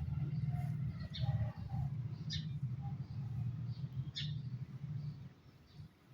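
Birds chirping, short high calls every second or two, over a low steady rumble that fades out near the end.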